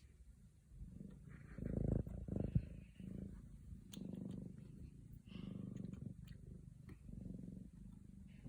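Scottish Fold kitten purring in rhythmic waves, roughly one a second, starting about a second in.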